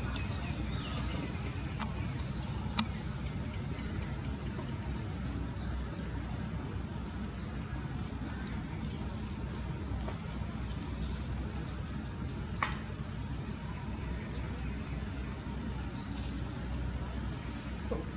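Steady low rumble with short, high, rising chirps of small birds every second or two, and two sharp clicks, one about three seconds in and one near thirteen seconds.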